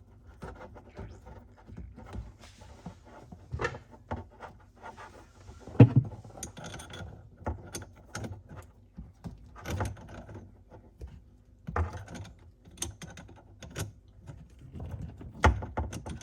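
Threaded hose fitting being screwed onto a sink supply line by hand: irregular small clicks, taps and knocks of the fitting and hose being handled in the cabinet, with a sharper knock about six seconds in and another near the end.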